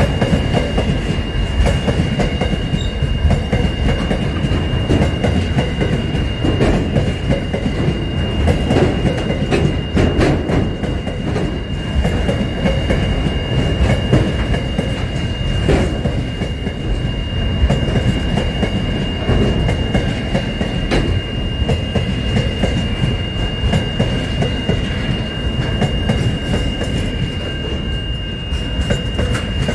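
Container freight train rolling steadily past at close range: a continuous rumble of wagon wheels on the rails, with scattered clacks. A steady high whine sits over the top.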